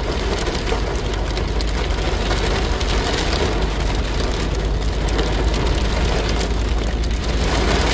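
Steady rain falling on a car, mixed with the car's engine and road noise.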